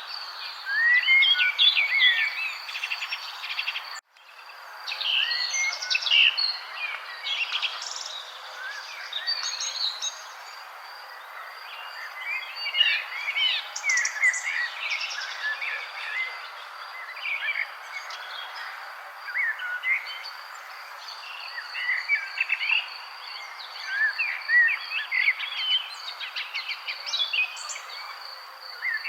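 Several birds chirping and singing in short, overlapping phrases over a steady, high, pulsing insect trill. The whole sound cuts out briefly about four seconds in and fades back up.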